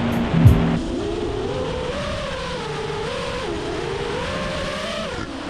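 FPV quadcopter's motors whining in flight, the pitch wavering up and down as the throttle changes.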